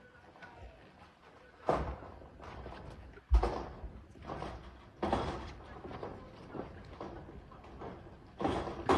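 Irregular loud knocks and clatters from work on a corrugated zinc roof, about five sudden impacts a second or two apart, each with a short rattling tail.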